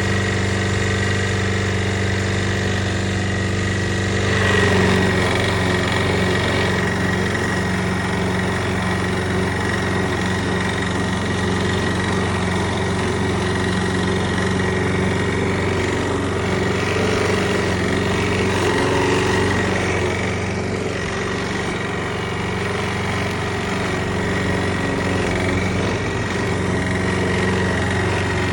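Petrol lawn mower engine running steadily. About four seconds in the sound grows fuller and a little louder, then holds steady.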